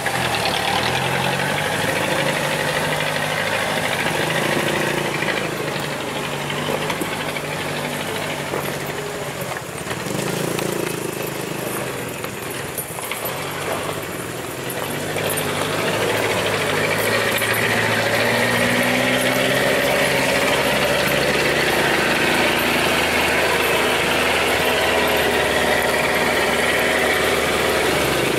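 Truck engine running, its pitch shifting up and down, then louder and steadier under load from about halfway on.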